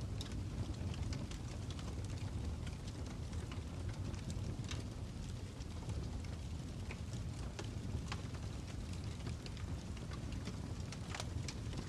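Fire crackling: irregular small snaps and pops over a steady low rumble of burning, with a sharper snap near the end.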